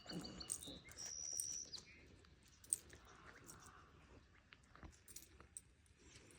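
A songbird singing faintly: a long, clear, high whistled note about a second in, ending in a brief upward flick. Scattered faint clicks follow, with one sharper click near the middle.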